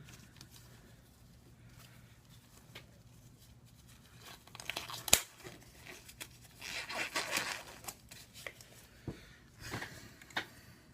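Hands working on an opened iPad 2: intermittent rustling, peeling and crinkling sounds with a few sharp clicks and taps, after a few quiet seconds.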